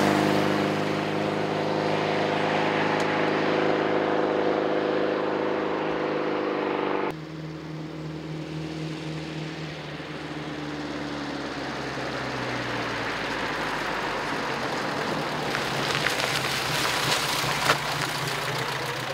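1934 Lagonda Rapier's Coventry Climax twin-cam 1104cc four-cylinder engine running as the car is driven along a country lane. The sound drops off abruptly about seven seconds in, then grows steadily louder as the car approaches.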